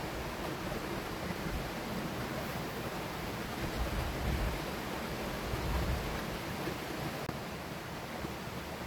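Steady rushing of a river flowing close by, with a few low rumbling gusts of wind on the microphone.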